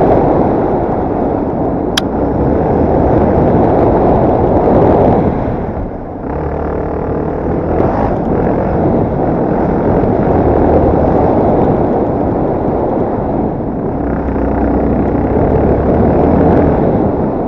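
Yamaha TT250R's single-cylinder four-stroke engine running as the bike is ridden, under heavy wind noise on the microphone. The overall level dips briefly about six seconds in, and a single sharp click sounds about two seconds in.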